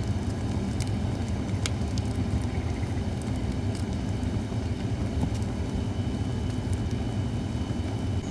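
Holly-wood campfire burning, a steady low rumble with a few sharp crackles and pops scattered through it.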